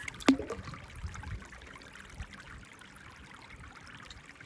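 A single sharp click about a third of a second in, then a faint steady hiss.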